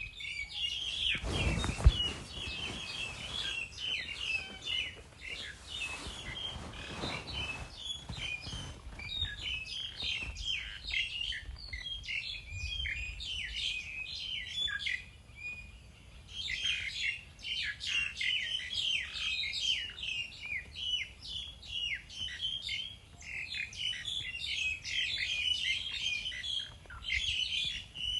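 Many small birds chirping and twittering continuously in quick, overlapping high calls. A few low rumbles come in the first several seconds, with a sharp thump about two seconds in.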